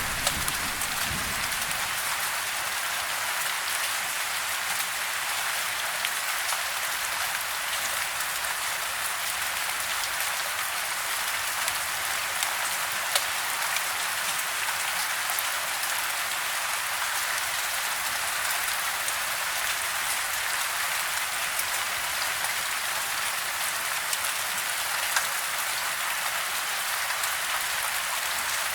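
Steady soft rain falling on a house, heard from indoors: an even hiss with scattered individual drop ticks. A low rumble of distant thunder dies away in the first second or two.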